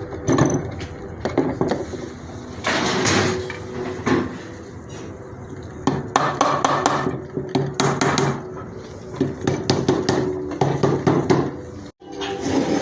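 Metal engine parts and hand tools clinking and knocking against each other during the rebuild of a Subaru 2.0 litre turbo boxer engine, in irregular clusters of sharp clicks.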